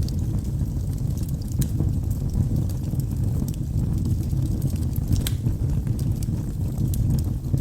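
Logs burning in a fireplace: a steady low rumble of the fire with scattered sharp crackles and pops, one of them louder about five seconds in.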